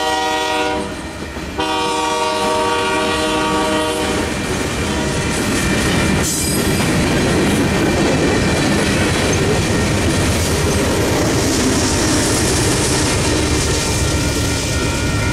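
A Kansas City Southern freight locomotive's air horn sounds a chord as it crosses the grade crossing. It breaks off briefly about a second in, sounds again and stops about four seconds in. After that, covered hopper cars roll past with steady wheel noise and clickety-clack over the rail joints.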